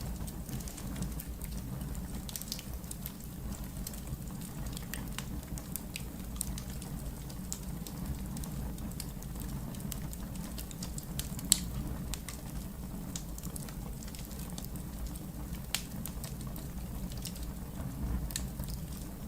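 Wood fire burning in a fireplace: a steady low rumble of flames with scattered crackles, and a sharp loud pop about halfway through and a smaller one a few seconds later.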